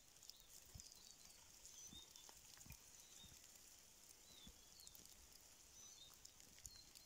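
Faint snowy-forest quiet with small birds giving short high calls every second or so, and soft steps in snow underneath.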